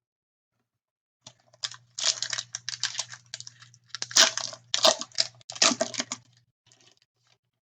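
Crinkling and tearing of a trading card pack's wrapper as the pack is handled and opened, with cards shuffling, in dense crackly runs over several seconds that stop about a second before the end.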